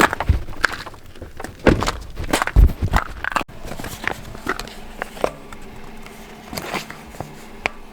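Footsteps in snow, a quick irregular series of steps. After about three and a half seconds they give way to a quieter stretch with a faint steady hum and a few soft clicks.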